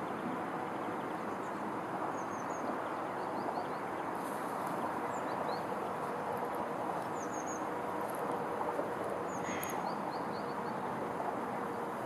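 Small birds chirping faintly, short high calls several times, over a steady rushing outdoor background with a faint low hum.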